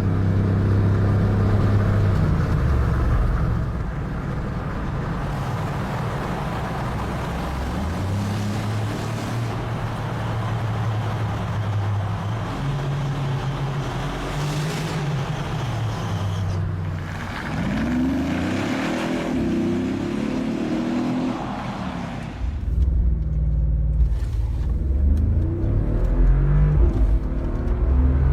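Mercedes-AMG G63's 5.5-litre biturbo V8 running, its engine note shifting up and down. About eighteen seconds in it revs up in a rising sweep for a few seconds. Near the end a louder low rumble takes over.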